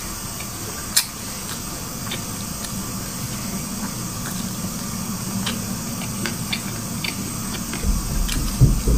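Close-miked chewing of a mouthful of black sesame seeds and buckwheat, with small mouth clicks over a steady low hum. One sharp click about a second in, and louder chewing sounds near the end.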